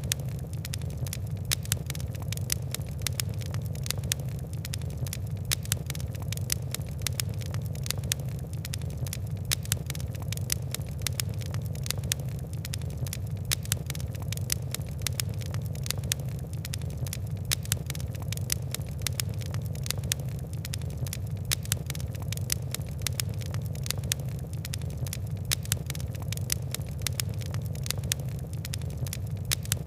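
Fire crackling: a dense, irregular run of sharp pops and ticks over a steady low rumble.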